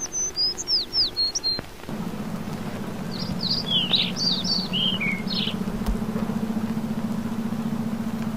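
Birds chirping in short, falling whistled notes, in two bouts. From about two seconds in, a steady low whirring hum with a fast even flutter runs underneath.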